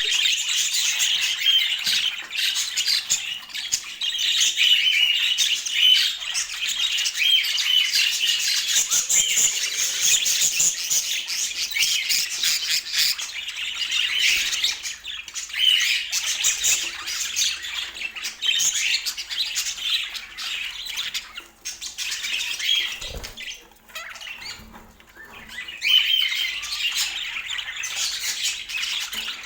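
Budgerigar chatter: quick, high chirping and squawking almost without a break, easing off briefly about two-thirds of the way through.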